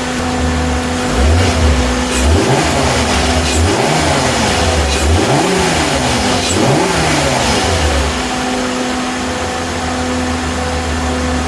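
VW T4 Transporter's VR6 petrol engine idling, blipped up in revs about five times in quick succession in the first two-thirds, each rev rising and falling back, then settling to a steady idle, running on fresh 5W30 synthetic oil.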